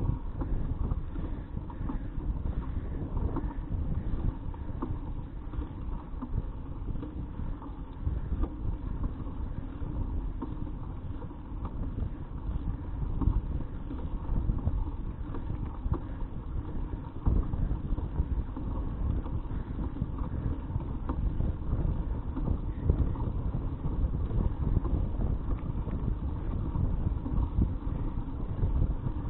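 Wind buffeting the microphone of a bicycle-mounted action camera while riding, a steady low rumble that flutters in strength, mixed with tyre and road noise from the moving bicycle.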